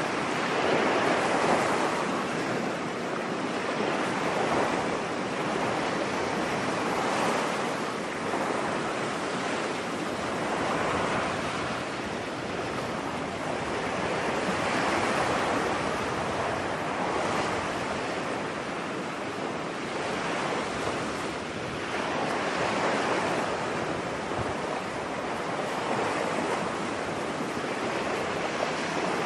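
Ocean surf washing onto a beach, a steady rush of breaking waves that swells and fades every few seconds.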